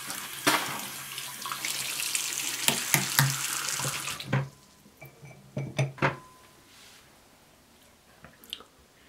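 Water running from a tap into a sink, shutting off about four seconds in, with several knocks and clinks during and just after it.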